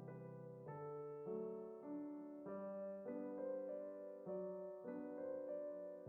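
Soft background piano music: slow, sustained chords that change every second or so.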